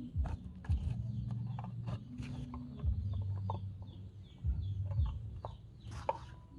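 Bird chirping: a run of short, high, falling chirps, about three a second, over a low hum that breaks off several times and scattered clicks.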